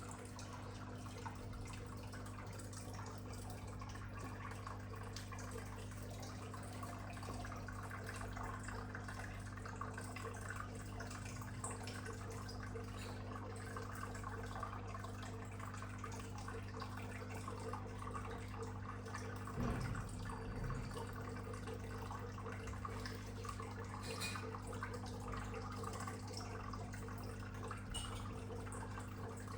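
Turtle tank water trickling and dripping steadily over a constant low hum, the sound of an aquarium filter or pump running. One short knock comes about two-thirds of the way through.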